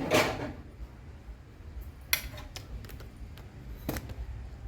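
Fridge shelves and drawers being handled and fitted back into place: a short sliding scrape at the start, then two sharp knocks, about two and four seconds in.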